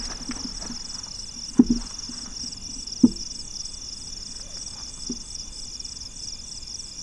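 Insects chirring steadily in a fast pulsing rhythm, with two sharp knocks about a second and a half and three seconds in and a fainter one near five seconds.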